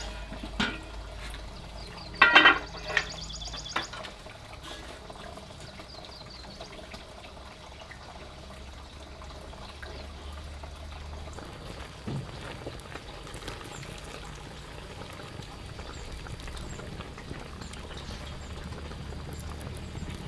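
Steady trickling, pouring noise like running water, with a few loud sharp clatters about two to three seconds in.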